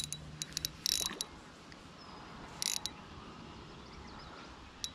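Fishing reel clicking and ratcheting in irregular bursts, densest in the first second, while a good-sized smallmouth bass pulls against the light line.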